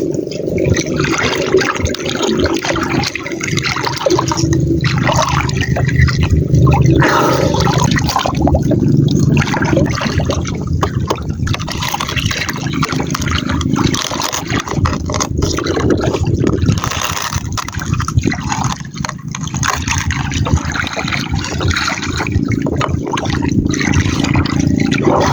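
Seawater sloshing and splashing around a small boat, a loud, uneven rushing noise.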